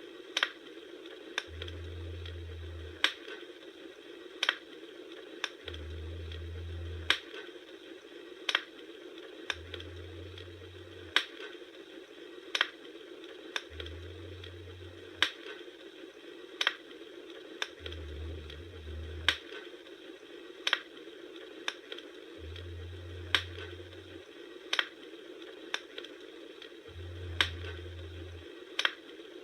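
Campfire burning: sharp crackles and pops about once a second over a steady hiss of the flames, with a low rumble that swells and fades every few seconds.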